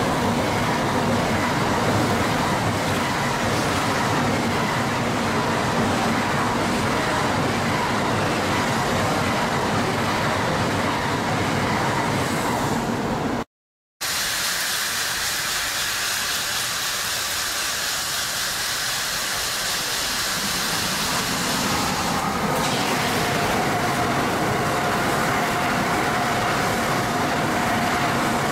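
Tokaido Shinkansen trains running through in heavy snow at reduced speed. The first train passes close with a steady rushing rumble of wheels and running gear. The sound cuts out for a moment about halfway, then a second train approaches, growing louder and fuller as it draws near and passes close by.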